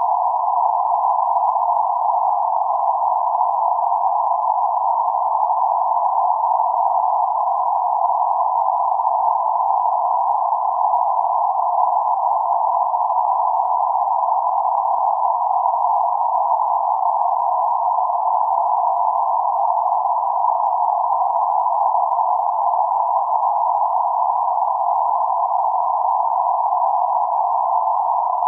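Steady band-limited noise centred around 848 Hz, a constant hiss confined to a narrow band of middle pitch, with no highs or lows.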